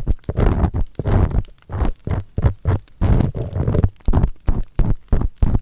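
Ear pick scraping firmly inside the ear of a 3Dio binaural microphone, short rough strokes about three a second.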